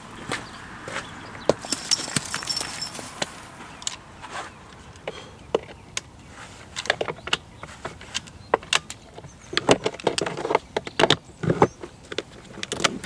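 Irregular clicks, knocks and rustling from things being handled or moved, growing busier for the last few seconds.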